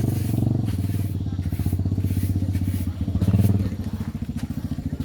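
An engine running steadily in fast, even pulses, briefly louder about three seconds in.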